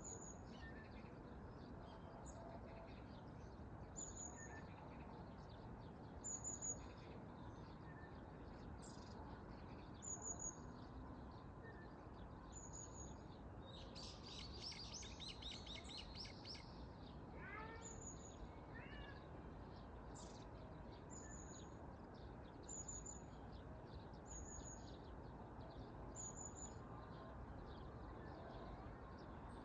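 A small bird repeats a short, high call note every second or two. About halfway through a bird twitters in a brief dense burst, and just after it a cat meows twice. All of it sits over steady, low background noise.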